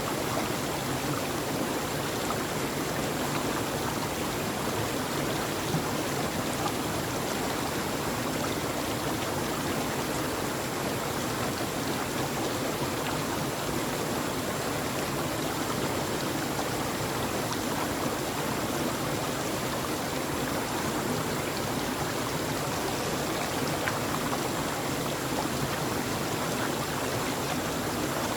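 Steady flowing water as nature white noise: an even, unbroken rushing with no change in level.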